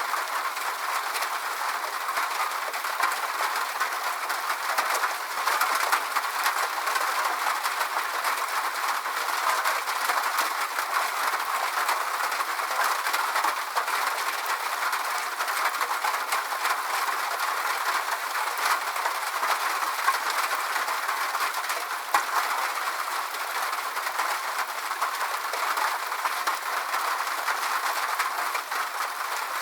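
Steady rain falling: an even hiss made of many fine drop ticks, unchanging throughout.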